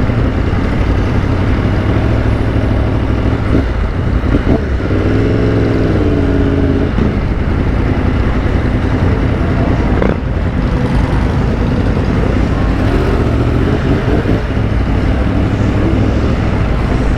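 Yamaha FZ-10 motorcycle's inline-four engine running steadily at low speed, heard from the rider's seat with wind on the microphone. About five seconds in, a wavering tone rises and falls for a couple of seconds.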